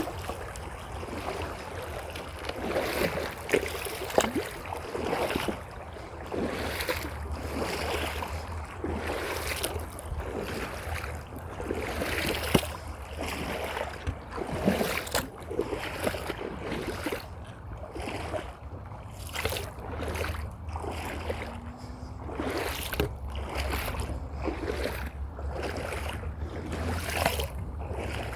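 Footsteps at an even walking pace by a running creek, with the water splashing and wind rumbling on the microphone.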